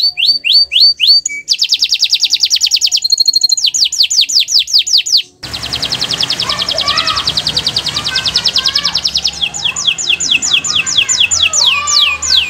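Domestic canary singing loudly: fast rolling trills alternating with runs of repeated high, down-sweeping whistled notes, several a second. About five seconds in the sound cuts abruptly to a noisier stretch, where the canary's trills and sweeping notes carry on over faint, lower chirps.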